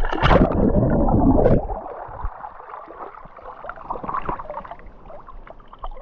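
Water splashing and gurgling close to the microphone, loudest over the first second and a half, then quieter irregular sloshing.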